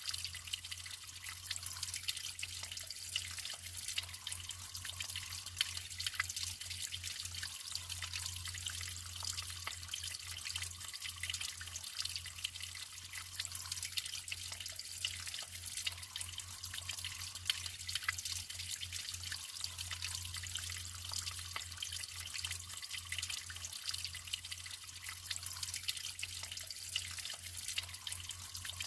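Naturally flowing water running steadily, a continuous high, splashy rush with fine drips and flickers in it and no pauses.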